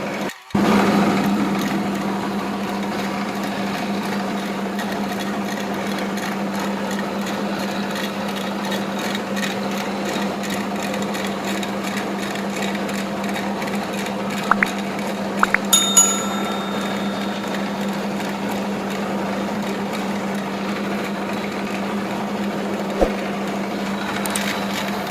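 A small motor running steadily with a constant hum. It breaks off briefly about half a second in, and a few sharp clicks come later on.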